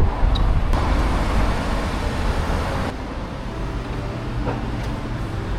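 Road traffic on a city street, with vehicles passing. The sound swells about a second in and changes abruptly about three seconds in.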